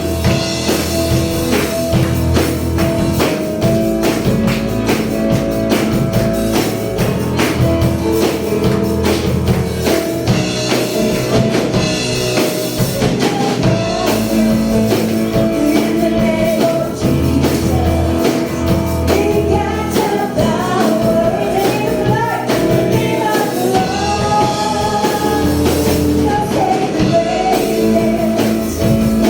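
Upbeat gospel praise music: singing over a band with a steady tambourine beat.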